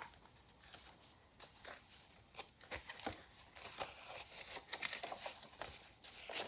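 Soft paper rustling and light taps as the pages and fold-out elements of a handmade junk journal are handled and turned, the sounds growing busier in the second half.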